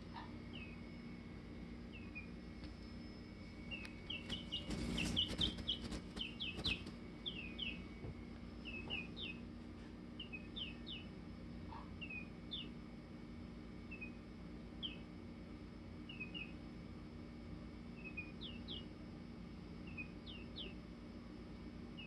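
Chicken making short, high chirps in an irregular string, densest for a few seconds near the start, with a few clicks among them there. A steady low hum runs underneath.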